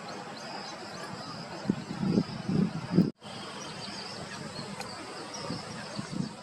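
Outdoor ambience with a steady high-pitched insect-like hum and small chirps. Low, voice-like rumbles come through about two to three seconds in. The sound drops out for a split second just after three seconds, then resumes.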